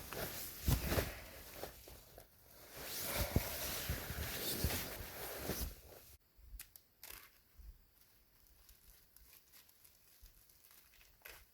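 Close rustling and crinkling handling noise, with many small clicks and knocks. It cuts off abruptly about six seconds in, leaving only faint scattered ticks.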